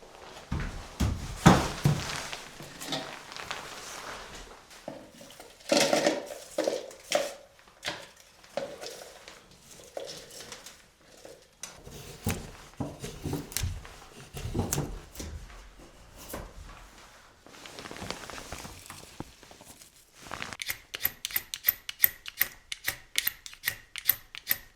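Irregular knocks, clatter and scraping of hard objects being handled. Near the end comes a fast, even run of sharp ticks.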